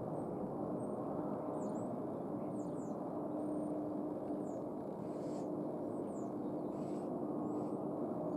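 Steady distant jet-engine rumble with a constant low hum, while small birds chirp in short high notes throughout.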